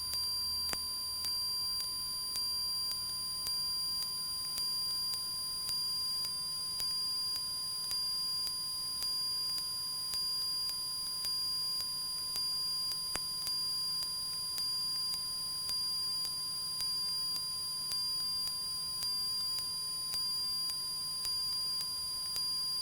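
A steady electronic tone made of a few pure pitches, with a faint pulse about once a second. It stands in for the normal cabin sound, and there is no engine noise under it.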